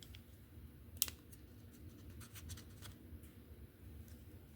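Faint handling of small slot car chassis parts (magnet, shim and plastic retaining piece): one sharper click about a second in, then a run of soft ticks and light scratches.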